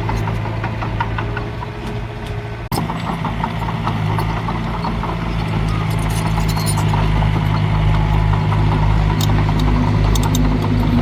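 Heavy diesel engine of earthmoving machinery running steadily, with light rattling and a brief break in the sound about two and a half seconds in.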